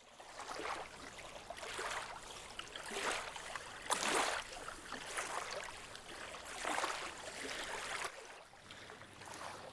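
Faint water washing on a beach, a soft hiss that swells and fades about once a second.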